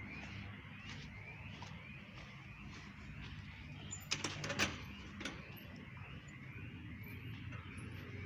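A bird calling over and over with short rising chirps, over a steady low hum. A few sharp clicks come close together about halfway through.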